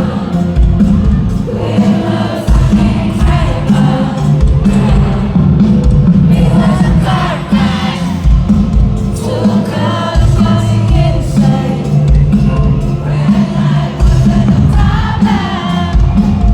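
Live band music played loud over a heavy bass pulse, with a sung melody and the crowd singing along.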